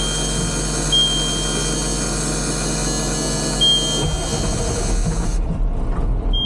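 Ford F700 turbo diesel engine being started: it turns over with a cab warning buzzer beeping roughly every second and a half, then catches about four seconds in and runs rough and uneven.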